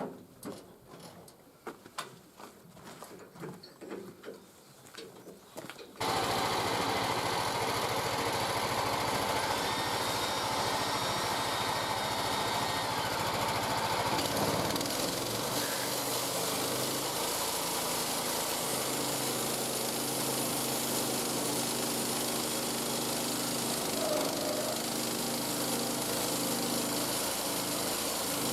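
Bandsaw mill running and sawing a log: a loud, steady engine hum with blade noise that comes in suddenly about six seconds in, after a few faint knocks and clicks.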